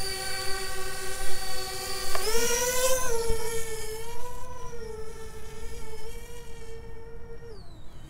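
Parrot Bebop 2 quadcopter's motors and propellers whining. The pitch jumps up sharply about two seconds in as the drone punches out at full throttle in sport mode, holds high, then falls away near the end.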